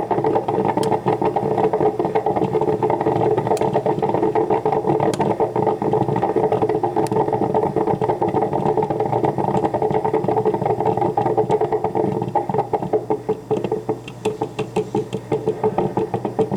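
Black & Decker thermal-carafe drip coffee maker brewing, its heater gurgling and bubbling steadily with small clicks; from about three-quarters of the way in, the bubbling breaks up into quick, uneven sputters.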